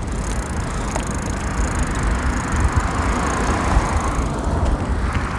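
Wind buffeting the microphone over the hiss of bicycle tyres rolling on pavement; the hiss swells in the middle and eases near the end.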